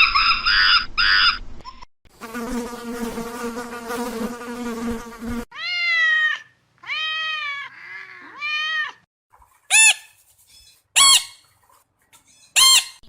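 A run of separate animal-call clips: a few quick pitched calls, then about three seconds of steady buzzing, then three long arching squealing calls and three short, sharp calls.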